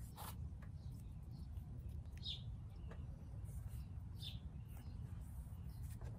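Faint outdoor ambience: a low steady rumble with a few short, high bird chirps, about two seconds and again about four seconds in.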